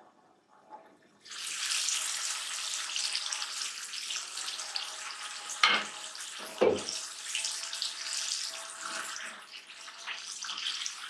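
Chicken and tomato biryani masala sizzling in a karahi. The sizzle starts suddenly about a second in and goes on as a steady hiss. Two loud knocks come near the middle, about a second apart.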